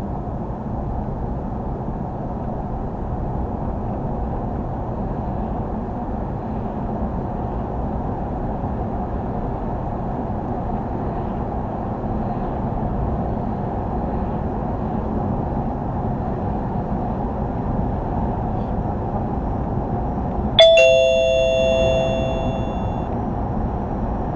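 Steady low road and engine noise of a moving vehicle heard from inside. Near the end, a single two-note descending chime (ding-dong) rings out and fades over about two seconds.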